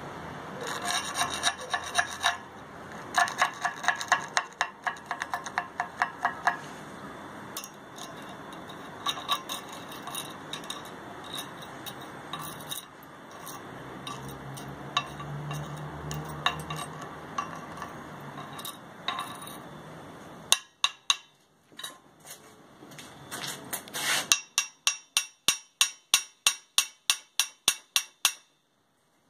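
Stick-welding arc from a 2.5 mm electrode at 65 amps, a steady hiss with crackling pops that cuts off about 20 seconds in. Near the end come rapid, even taps, about four a second.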